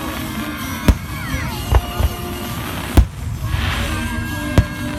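Aerial fireworks shells bursting in the distance: several sharp booms, the loudest about three seconds in, followed by a spell of crackling. Music plays underneath.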